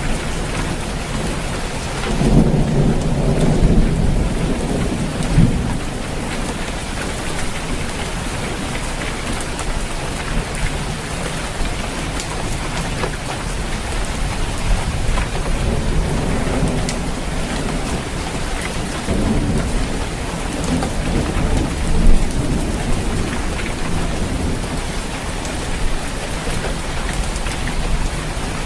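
Steady rain falling on a roof, with low rumbles of thunder swelling about two seconds in and again around twenty seconds in. A single sharp loud tap comes just after the second rumble.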